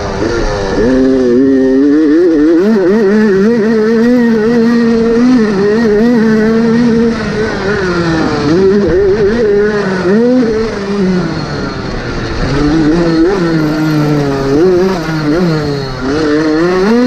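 Motocross motorcycle engine racing on the track, its pitch rising and falling again and again as the rider works the throttle and gears.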